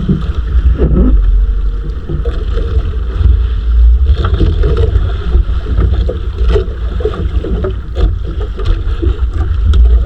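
Small boat out on open water, with heavy wind rumble on the microphone and irregular water and hull noise.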